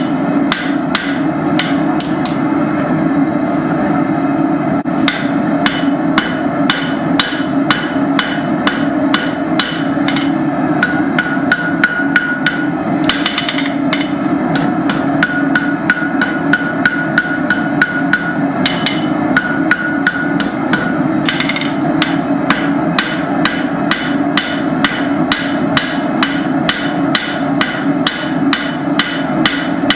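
Hand hammer striking hot steel on an anvil, forging a banister hook, in a steady run of about two to three blows a second over a steady rushing noise.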